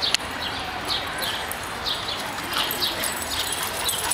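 Birds chirping in short, repeated downward-sweeping calls, a couple a second, over a steady outdoor background hiss, with one sharp click at the start.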